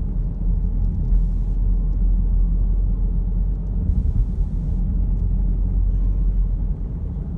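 Steady low road and engine rumble inside a moving car's cabin. Two short faint hisses come about a second in and about four seconds in.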